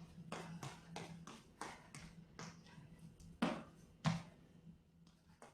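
Feet landing on the floor in quick, fairly even succession, about three a second, as someone runs in place with high knees between squat thrusts. Two heavier landings come about three and a half and four seconds in, over a steady low hum.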